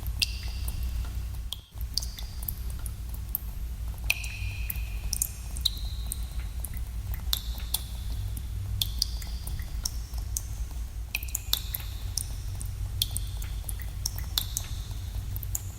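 Water drops falling in a cave, an irregular run of sharp plinks, each with a short high ringing tone and some overlapping, over a steady low rumble. The sound drops out for a moment a little under two seconds in.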